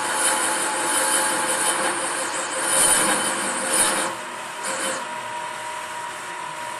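Serdi valve seat machine cutting a valve seat in a Honda CRF cylinder head: a rough, rasping cut over the machine's steady hum. The cut stops about four seconds in and comes back briefly near five seconds, leaving the hum.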